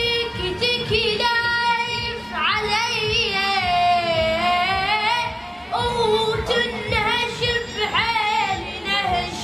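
A high solo voice singing an Arabic song, with long held notes that waver and slide between pitches.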